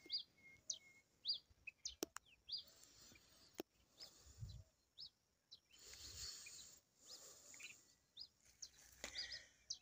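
Faint bird calls: a songbird repeating short, high chirps about twice a second, with a few faint clicks from the phone being handled.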